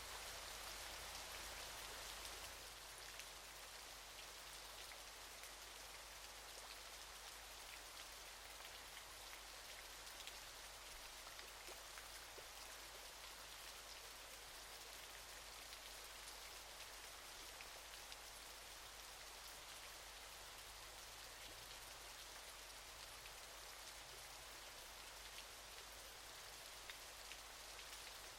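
Waterfall: a faint, steady hiss and patter of falling water, dropping slightly in level about two seconds in.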